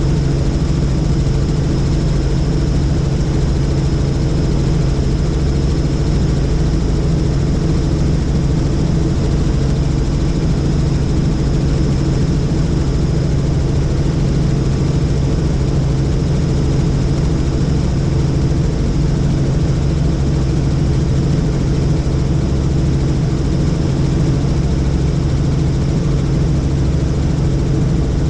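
Helicopter in steady flight: a loud, even rotor and engine drone with a thin high whine on top, holding steady throughout.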